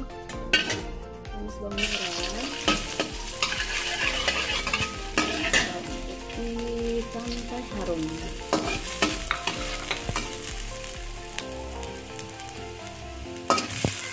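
Sliced shallots and garlic sizzling in a little hot oil, stirred with a spatula that scrapes and clicks against the pan. The sizzle starts about two seconds in.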